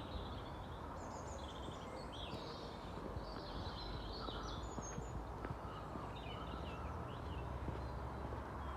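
Several birds chirping and singing outdoors, short high calls scattered throughout, over a low rumble of wind on the microphone.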